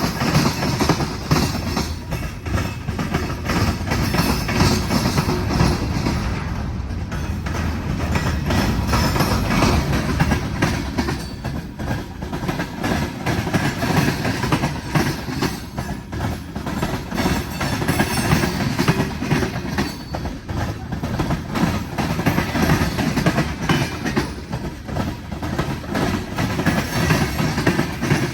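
Freight cars rolling past, steel wheels clacking and knocking over rail joints under a continuous rumble.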